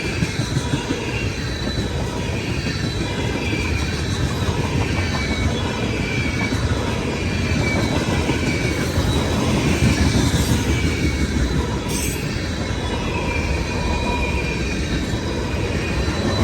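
Freight train rolling through a grade crossing: a steady rumble of wheels on rail, with thin high ringing tones from the wheels over it.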